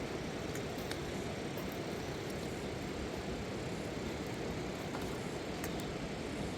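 Fast river water rushing in a steady, even noise.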